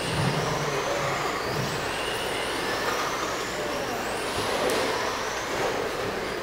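1/10-scale RC racing trucks lapping a dirt oval, their motors whining up in pitch again and again as they accelerate down the straights, over a steady noisy din from the track.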